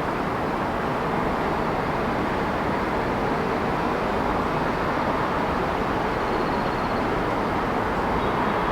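Steady city traffic noise: a continuous wash of vehicles running on nearby streets, even in level throughout.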